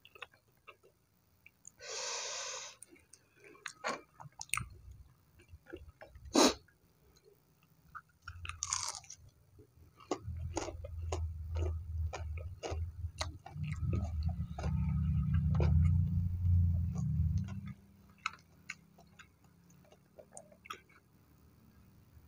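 Close-miked chewing of crispy batter-fried tempeh, with crunches, bites and wet mouth clicks scattered throughout and a few louder single cracks. A louder low rumbling stretch runs through the middle.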